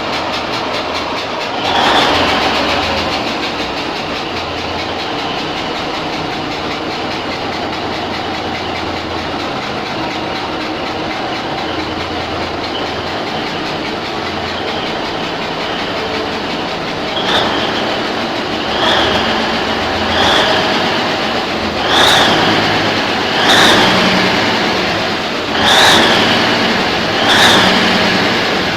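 Cummins diesel engine running loudly. In the last third, a run of seven short surges comes about every second and a half, each with a brief high whistle.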